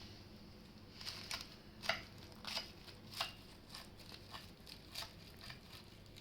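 Baked puff pastry crust crackling and crunching in irregular crisp clicks, the sharpest about two seconds in.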